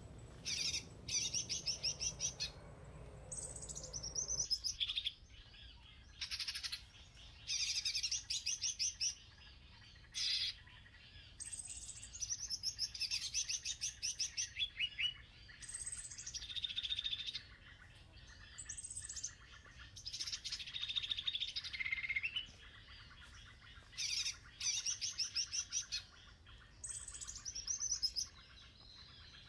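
Birds singing: short, rapid trilled phrases repeated every second or two. A low rumbling noise underneath stops about four and a half seconds in.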